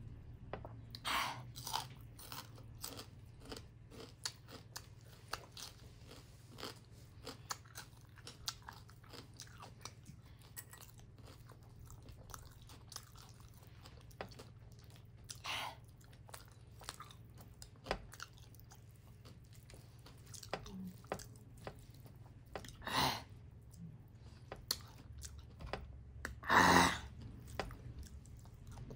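Close-up eating sounds: chewing of finger-millet dhido and mustard greens eaten by hand, with many small wet mouth clicks and smacks. A few louder mouth noises stand out, the loudest near the end.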